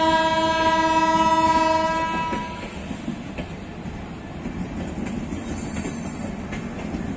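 A train horn sounds one blast of several tones together, lasting about two and a half seconds. It gives way to the rolling clatter of the LHB coaches of the Mau–LTT Express going past.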